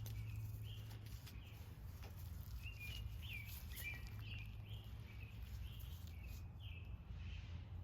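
A small bird chirping repeatedly, short calls a couple of times a second, over a steady low hum.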